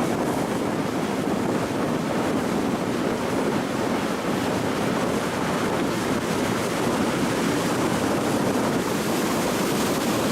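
Steady rushing noise of wind and water, with no distinct events.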